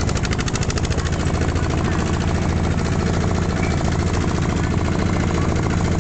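Tractor taxi's engine running steadily with a rapid, even chugging beat.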